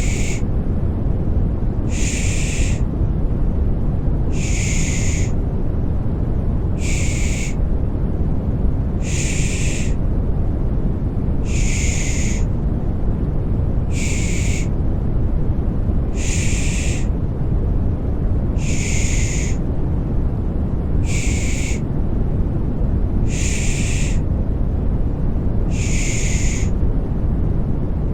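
Rhythmic 'pış pış' shushing, a hissing 'shh' repeated about every two and a half seconds, over continuous deep white noise. It is a baby-soothing sound meant to settle infants to sleep.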